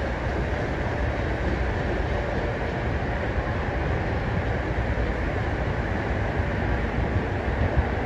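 Freight train of tank cars and boxcars rolling along the track, its wheels on the rails making a steady rolling noise.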